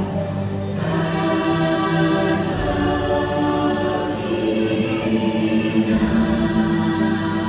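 Choral music: many voices holding sustained, layered chords.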